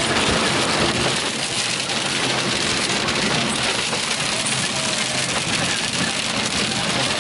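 Heavy rain beating steadily on a car's roof and windshield, heard from inside the cabin, over the rush of the car driving.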